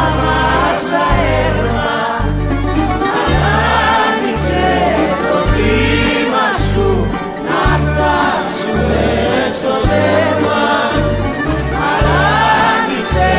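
Greek rebetiko song: voices singing over band accompaniment, with a bass line stepping from note to note beneath.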